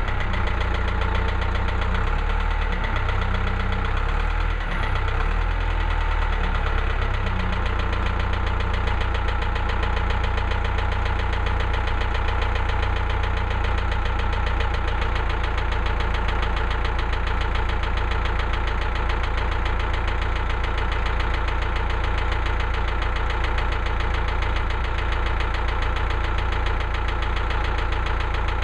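Engine of a Woodland Mills HM130MAX portable band sawmill running steadily. Its low note wavers in the first few seconds, then settles.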